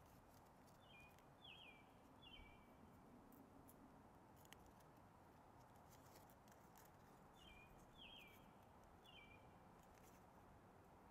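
Near-silent room with a faint bird call: three short chirps sliding down in pitch, heard twice about six seconds apart. Scattered faint clicks come from small paper being handled and folded, with one sharper tick near the middle.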